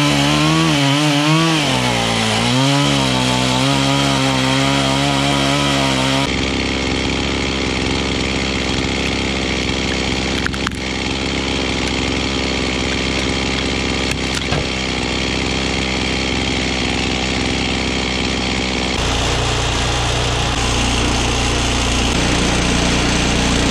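Gasoline chainsaw cutting through a cherry log, its engine pitch rising and falling under load for the first six seconds. Then a steadier petrol-engine saw running under load continues, its tone shifting again about nineteen seconds in.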